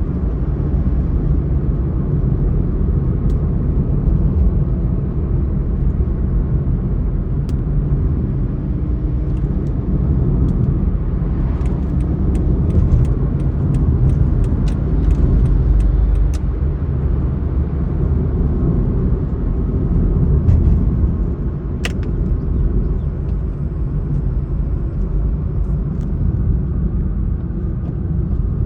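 Steady low rumble of a vehicle on the move, with scattered light ticks, most of them bunched together about halfway through.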